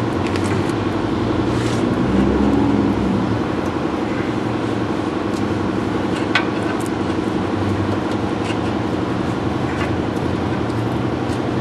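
A motor running with a steady hum, with a few light clicks and taps over it, the sharpest about six seconds in.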